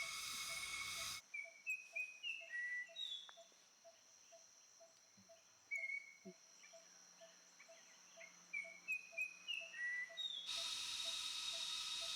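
Buzzing flowerpecker calling: bouts of short, sharp, high notes in quick series, stepping up and down in pitch, over a steady background of insects with a soft regular ticking. The first second and the last couple of seconds are a denser insect chorus.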